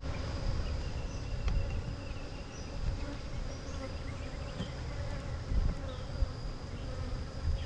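Honeybee swarm buzzing around a hive, a steady drone.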